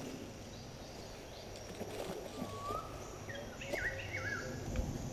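Bird calls over a low background noise: a short rising whistle about halfway through, then two quick swooping notes that drop and hook back up.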